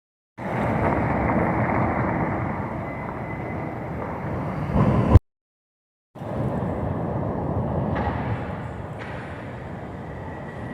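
Steady outdoor street noise, a dense rumble of passing traffic, that ends in a loud bump and cuts off abruptly about five seconds in, then starts again a second later.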